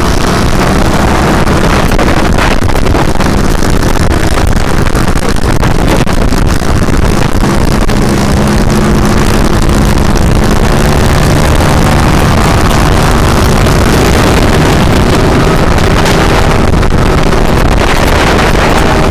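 Motorcycle engine running under way, its revs rising and falling, with heavy wind rush on the microphone.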